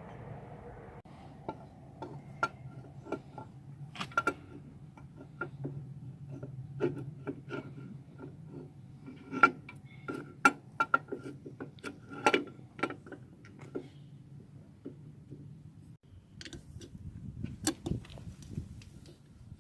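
Metal tools and engine parts clinking and knocking against each other in irregular, sharp strikes with a short ringing note. The strikes are busiest through the middle, pause briefly, then pick up again near the end.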